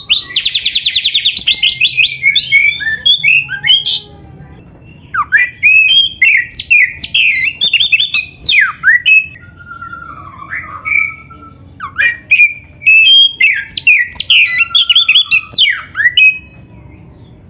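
Oriental magpie-robin (kacer) singing a loud, varied song of quick whistled and chattering phrases. It opens with a rapid trill, then sings three bursts separated by short pauses, with a softer phrase in between.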